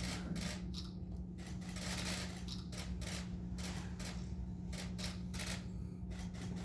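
Many camera shutters clicking in quick bursts, overlapping throughout, as press photographers shoot. A steady low hum runs underneath.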